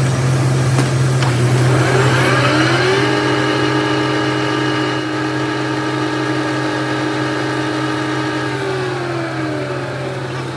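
Machine motor spinning up to speed with a rising whine, running at a steady pitch for several seconds, then winding down near the end, over a constant low hum.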